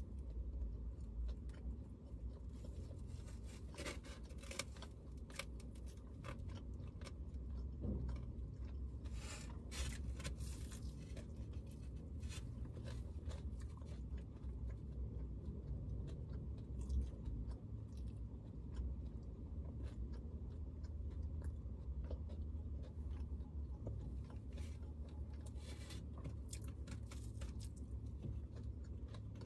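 A person eating with their hands close to the microphone: chewing and crunching, with scattered clicks and rustles, over a steady low hum.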